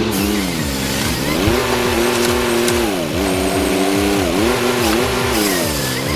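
Engine of a working machine running hard, its pitch dipping and recovering several times as the load changes.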